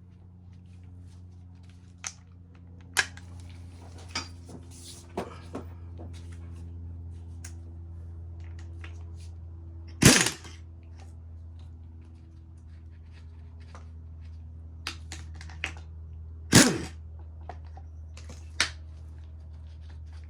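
Sharp knocks and clicks of a front strut assembly and its compressed coil spring being handled and taken apart, over a steady low hum; the two loudest knocks come about halfway through and again later.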